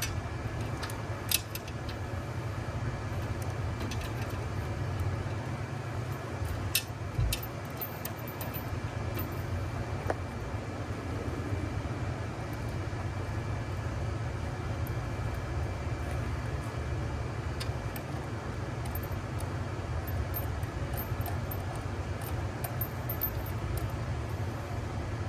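Steady low rumble with a few sharp metallic clicks and clinks scattered through it, from bolts, washers and hand tools being handled as the mini-split's outdoor unit is bolted down.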